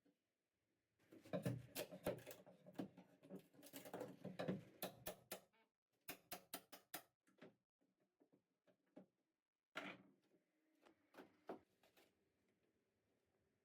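Hand demolition work inside a boat's cabin: irregular knocks, clicks and scraping, with a quick run of about seven taps around six seconds in and a few more knocks near the end.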